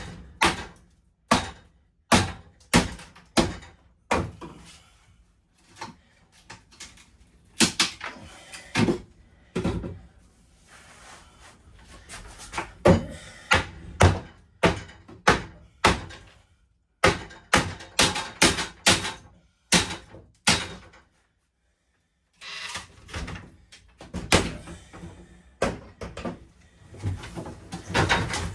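Interior fittings of an old RV being forced and knocked loose by hand: a string of irregular thuds and bangs, sometimes several in quick succession, with a short pause about three quarters of the way through.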